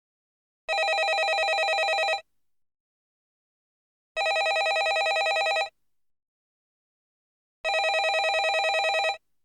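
Landline telephone ringing: three rings in a row, each about a second and a half of rapid trill, repeating every three and a half seconds with silence between.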